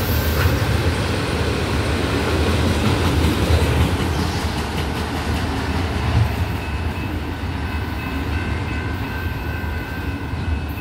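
Empty autorack freight cars rolling past: a steady rumble of steel wheels on rail. It fades gradually after about six seconds as the end of the train moves away.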